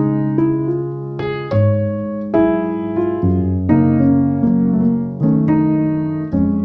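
Background piano music: slow chords struck about once a second, starting abruptly out of silence.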